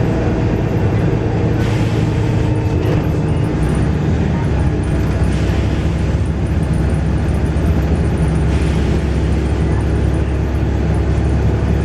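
Volvo B7RLE bus's six-cylinder diesel engine running steadily, with a few short hisses from the air system.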